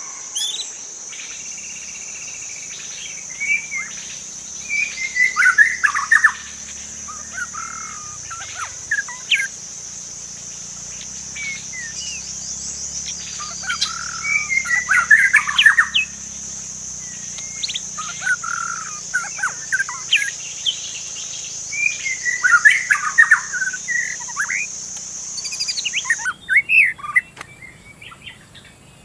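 White-rumped shama (murai batu) singing: loud bursts of fast, varied whistled phrases about every nine seconds, with scattered single notes between. A steady high-pitched drone runs under the song and cuts off suddenly near the end.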